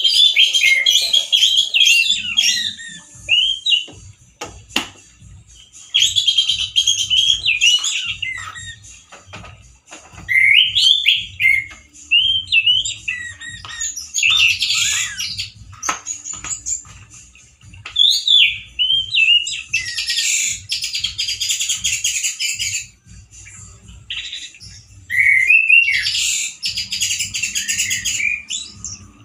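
Male orange-headed thrush singing in loud, harsh bursts of rapid, varied, gliding notes, about five song bursts separated by short pauses.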